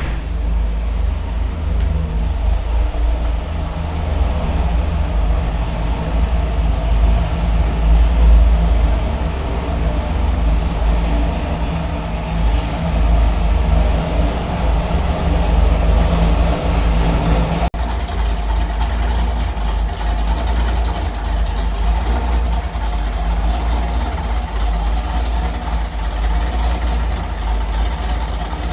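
Chevrolet Camaro V8 engine and exhaust running steadily with a deep drone, with a brief break about two-thirds of the way through.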